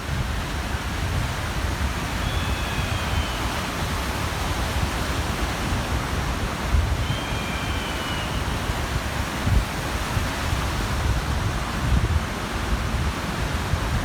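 Waves washing on a shore, with wind buffeting the microphone in gusts. A bird calls faintly twice, about two and seven seconds in.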